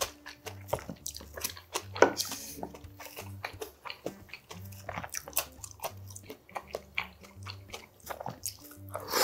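Close-miked chewing and biting of food, with many short crunchy clicks at an irregular pace, loudest about two seconds in.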